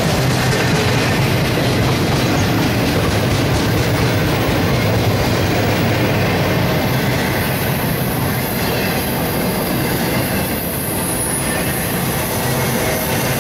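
CSX intermodal freight train's flatcars rolling past at close range: a steady, loud rumble and clatter of steel wheels on the rails.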